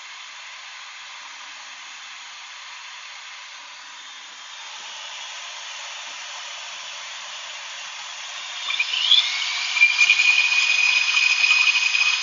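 Shop vac running with a steady hiss. About nine seconds in, an electric drill spinning the test propeller starts up with a rising whine, then holds a steady high whine over the vac.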